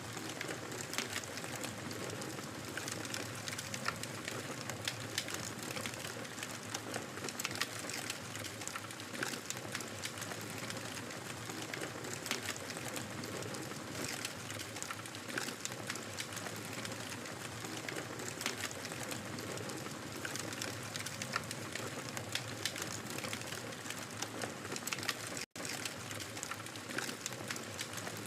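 Wood fire crackling: a dense, irregular run of small pops and snaps over a soft steady hiss. The sound cuts out for an instant near the end.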